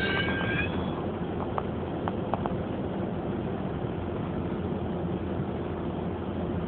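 GO Transit bilevel commuter train at the platform: a high wheel squeal fades out within the first second, leaving a steady low rumble of the train standing or creeping, with a few faint clicks a second or two in.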